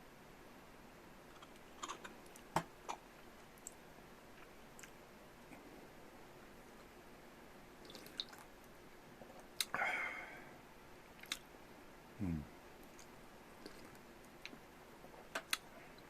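A person eating and drinking tea: scattered light clicks and taps of cup and dishes and quiet chewing, with a louder sip of tea about ten seconds in.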